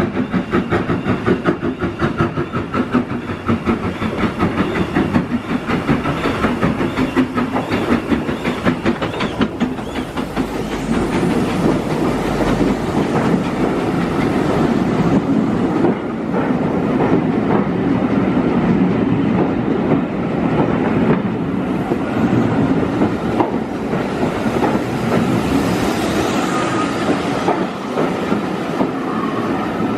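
Hunslet Austerity 0-6-0 saddle-tank steam locomotive working a train, with fast, even exhaust beats. About ten seconds in, these give way to a steady rumble and wheel clatter as the train's carriages roll past.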